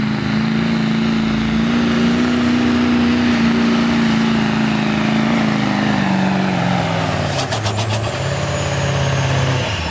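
Diesel pickup truck running at full throttle on a pull, its engine note holding steady, then falling in pitch as it bogs down under the sled's growing load. A quick cluster of sharp clicks comes about seven and a half seconds in, and the engine then runs on at a lower pitch until it drops off near the end.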